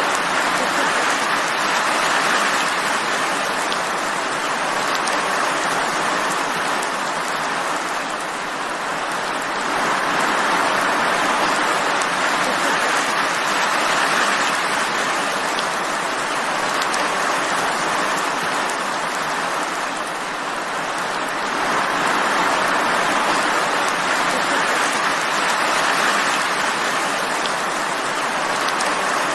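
Steady rain falling as a dense hiss, swelling and easing gently every several seconds.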